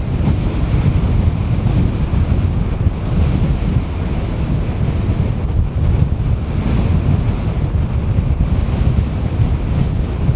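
Gusty wind buffeting the microphone: a loud, constant low rumble that never lets up.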